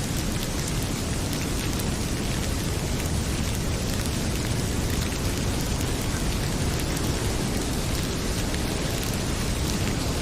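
Heavy rain falling steadily in an even, unbroken wash, with faint small crackles from a wood fire.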